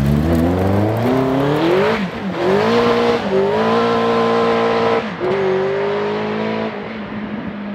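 TVR AJP8 flat-crank V8 accelerating hard through the gears: the pitch climbs, drops at a shift about two seconds in, climbs again and holds, then falls back about five seconds in as it eases off.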